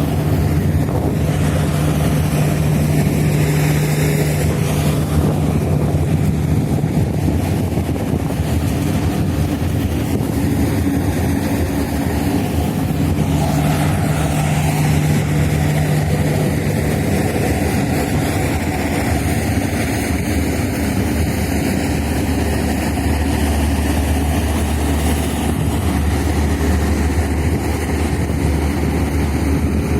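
Steady low drone of a large ferry's engines running, a continuous hum with a faint hiss of wind and water over it.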